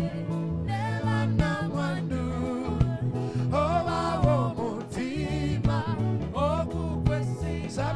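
Gospel song: a singer's voice over an instrumental backing with a steady, pulsing bass line.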